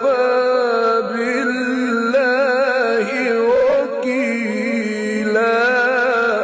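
Male Quran reciter's voice in the drawn-out mujawwad style: a long, ornamented melismatic line with a wavering pitch, held without a break, rising to a higher register about five seconds in.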